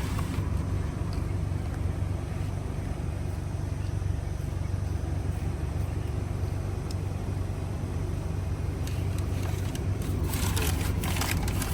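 Steady low rumble of a car's engine and tyres heard from inside the cabin as it drives slowly. A spell of crackling noise comes near the end.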